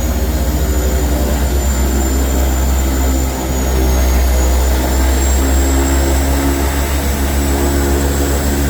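Seaplane's turboprop engines and propellers running steadily, a deep pulsing drone with a thin high turbine whine above it. The drone dips briefly about three seconds in.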